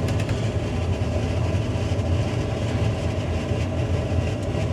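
John Deere 9500 combine's diesel engine idling steadily, warmed up and being left to cool off before shutdown.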